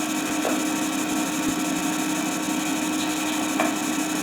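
Steady hiss with a constant low hum: the background noise of an old recorded soundtrack, with no speech or music.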